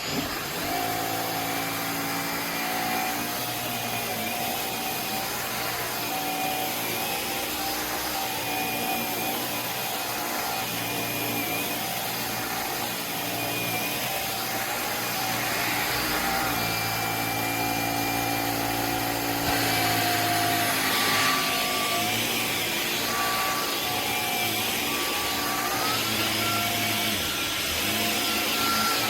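Dyson Gen5outsize cordless stick vacuum switching on and then running steadily, its motor whine shifting in pitch a few times.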